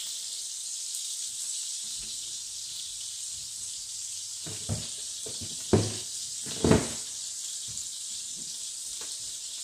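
Beef smash burger patties frying in hot grease, a steady sizzle. Three short knocks come in the middle, the second and third louder.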